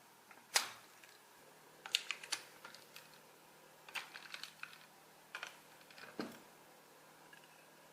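Irregular light clicks and taps of small hard parts being handled, coming in short clusters a second or two apart.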